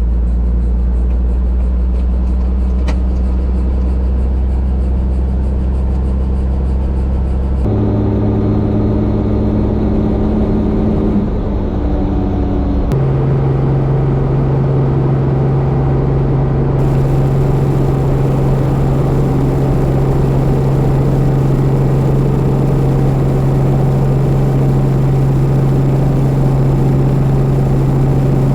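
Robinson R44 helicopter running: a loud, steady engine and rotor drone whose pitch shifts abruptly about 8 and 13 seconds in, then holds steady.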